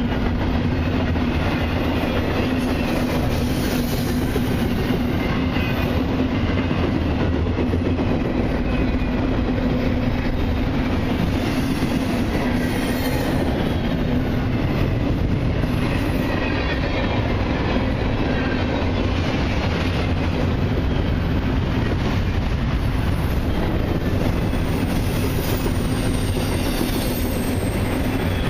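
Freight cars of a long intermodal and autorack train rolling past: a steady rumble and clatter of steel wheels on the rails, with faint wheel squeal.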